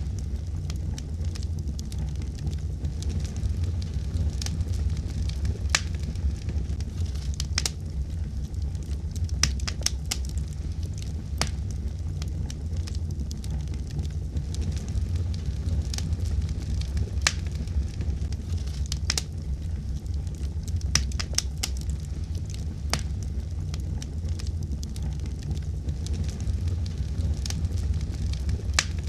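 Fire burning in a fireplace: a steady low rumble with irregular sharp crackles and pops scattered throughout.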